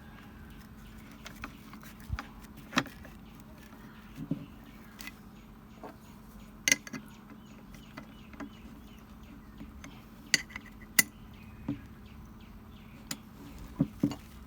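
Scattered light metallic clicks and taps, about a dozen at irregular intervals, from small metal parts and hand tools being handled during angle grinder repair work, over a low steady hum.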